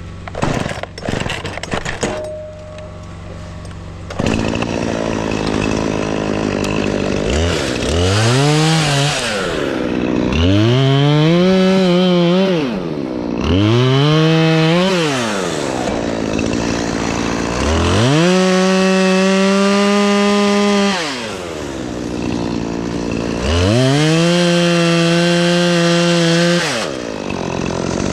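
Two-stroke chainsaw cutting tree limbs. After a few knocks it idles, then revs up into a cut and drops back to idle five times, the pitch sagging a little during some cuts.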